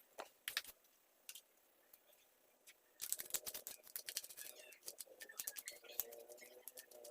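Quick clicks and scrapes of hands working on a mini chainsaw while cleaning it: a few scattered clicks at first, then a dense run of them from about three seconds in.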